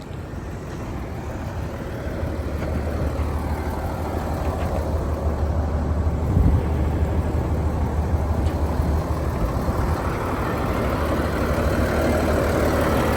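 Cummins ISL straight-six diesel of a Kenworth T800 mixer truck idling steadily, growing gradually louder. A brief knock comes about six and a half seconds in.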